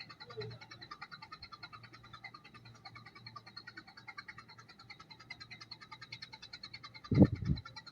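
A steady chorus of small animals calling in fast, even pulses, about ten a second. A loud, short low thump comes near the end.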